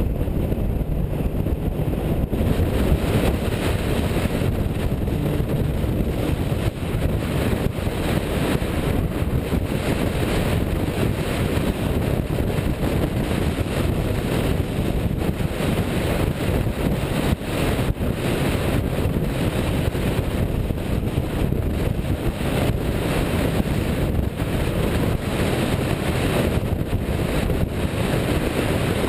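A car driving, with wind rumbling heavily on the microphone: a steady low roar with no clear engine note standing out.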